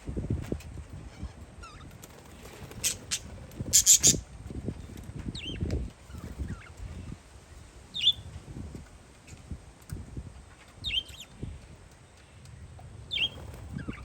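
Parakeets giving short, sharp chirps every couple of seconds, with a cluster of louder harsh bursts about three to four seconds in. Gusty wind rumbles on the microphone underneath.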